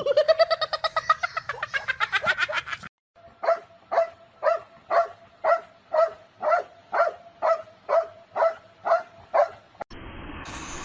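A pet animal calling: a fast run of short, high-pitched calls for about three seconds, then after a brief pause a steady series of about thirteen short calls, roughly two a second.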